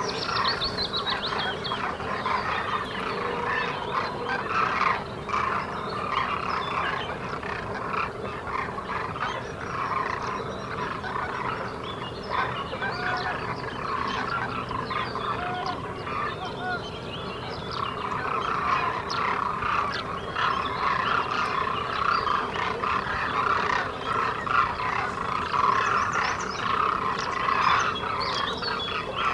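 A flock of demoiselle cranes calling together, many short croaking, trumpeting calls overlapping without a break.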